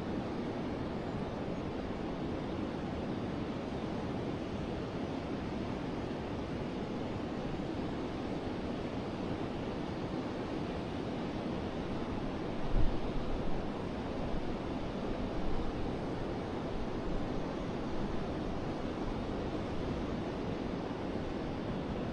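Steady rushing of a flowing forest river. A brief low thump about thirteen seconds in, with a few softer low bumps just after.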